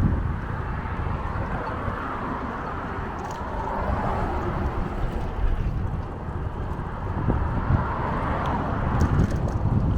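Wind buffeting the microphone over the steady rushing noise of a bicycle ride, with a few faint ticks near the end.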